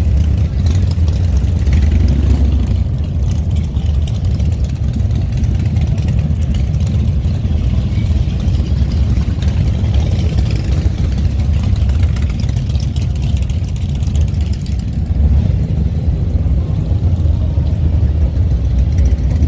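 Motorcycle engines idling and rumbling in a low, steady drone, several bikes at once.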